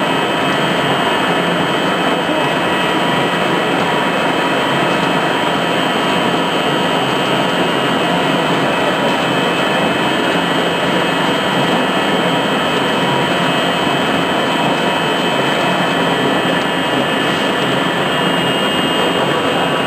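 Pellet machine running: a loud, steady machine noise with a few constant high tones, unchanging throughout.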